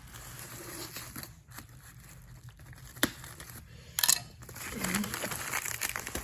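Packaging being handled and unwrapped, rustling and crinkling unevenly, with a sharp snap about three seconds in and another about a second later.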